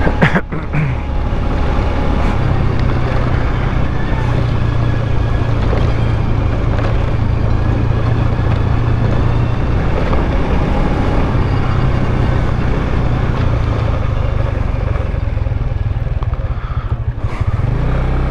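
Motorcycle engine running steadily under way, with an even rush of road and wind noise over it. A couple of sharp knocks come right at the start.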